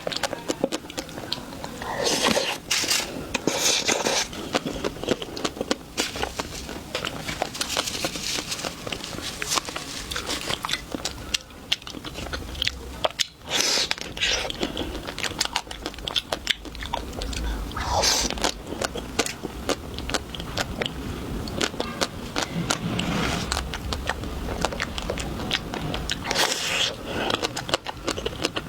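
Close-miked eating sounds: crunching bites into chocolate and chewing, with many small wet mouth clicks and a few louder crunches.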